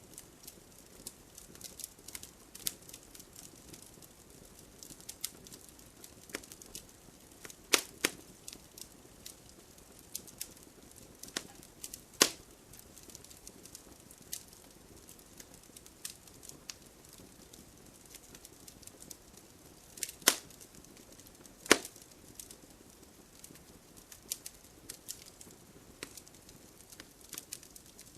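Wood fire burning in a fireplace, crackling steadily with scattered small snaps and a few loud sharp pops.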